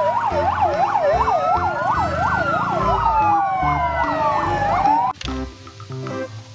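Emergency-vehicle siren: a quick yelping siren of about three cycles a second over a slower wailing one, both cutting off suddenly about five seconds in.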